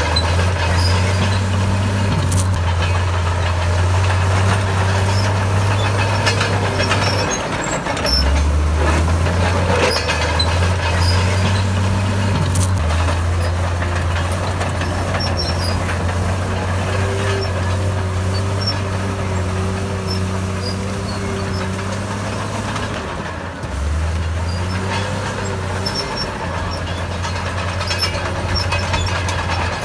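Diesel engine of a Komatsu D68 crawler bulldozer running under load while pushing soil, with scattered metallic clanks and knocks. The engine note drops briefly about seven seconds in and again near the end, then picks back up.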